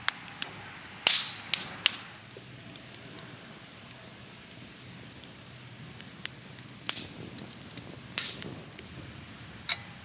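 Wood fire crackling: irregular sharp pops and snaps, the loudest about a second in, over a low steady background.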